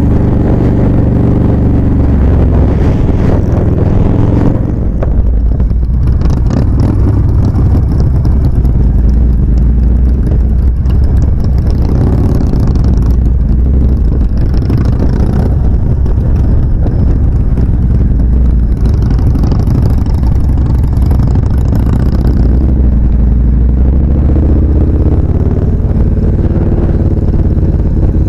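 Victory Vegas 8-Ball motorcycle's V-twin engine running steadily at road speed, with wind rushing over the microphone. The wind covers much of the engine for most of the ride, and the engine note comes through more clearly near the start and near the end.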